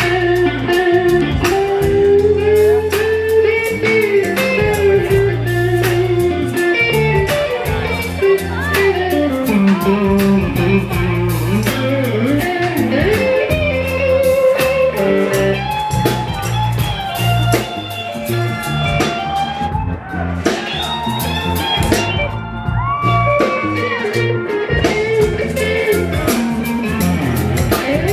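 Live band playing soul-blues, with a guitar prominent over bass and drums.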